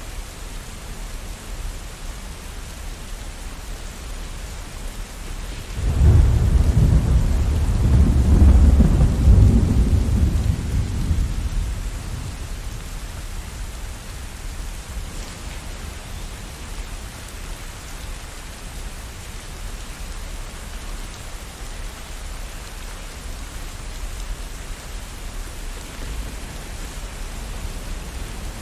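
Steady rain falling, with a roll of thunder that breaks in suddenly about six seconds in, rumbles loudest a couple of seconds later and fades away by about twelve seconds.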